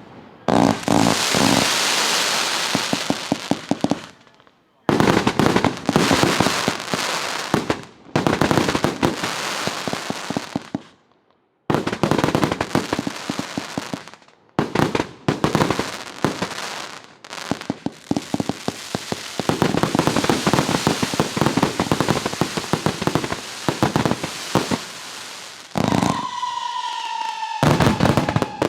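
Multi-shot display fireworks cake firing: rapid volleys of launch thumps and crackling bursts, coming in several runs broken by brief pauses. Near the end a steady whistling tone, falling slightly, sounds for about two seconds over the shots.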